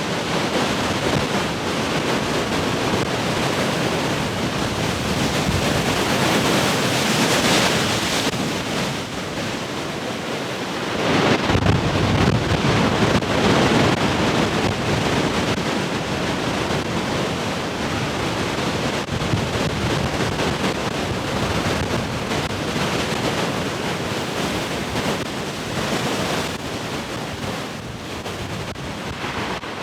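Heavy ocean surf: large waves breaking and rushing in a continuous roar that swells strongest about a dozen seconds in, with wind buffeting the microphone.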